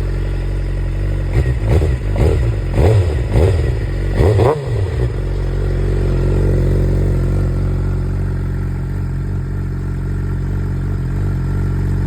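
2007 Suzuki GSX-R inline-four engine idling through a Jardine GP-1 exhaust, revved five times in quick succession about a second in, then settling back to a steady idle.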